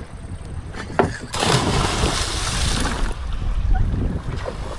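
A sharp knock, then a loud splash of water lasting about a second and a half, over a low rumble of wind on the microphone.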